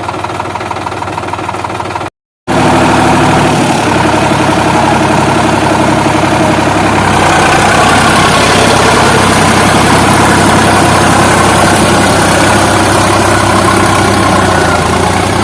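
Sonalika DI 47 tractor's diesel engine running steadily. The sound drops out briefly about two seconds in, comes back louder, and gains a stronger hiss from about seven seconds on.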